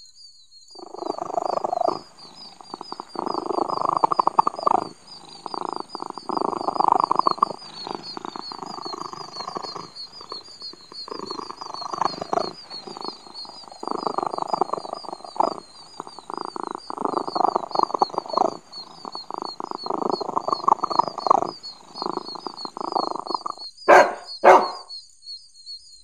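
Domestic cat purring, a steady rough pulsing in stretches of a second or two with short breaks between breaths. Two short sharp sounds come near the end.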